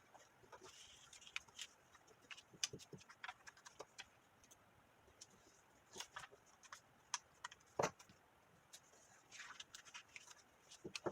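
Faint, scattered light clicks and taps with a few soft rustles, at irregular intervals.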